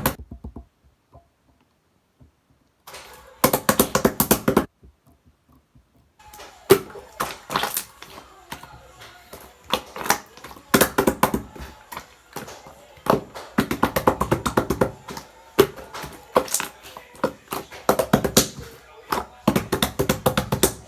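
Slime squished and pressed by hand, giving runs of quick wet pops and clicks. There are two short pauses near the start before steady squishing resumes.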